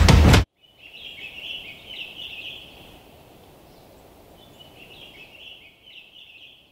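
Music stops abruptly about half a second in. Faint birdsong follows: high twittering in two spells over a quiet steady hiss.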